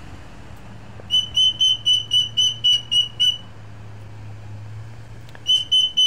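A bird giving rapid runs of short, shrill whistled notes on one pitch, about four a second: a run of about nine notes starting about a second in, and another starting near the end. A faint low hum runs underneath.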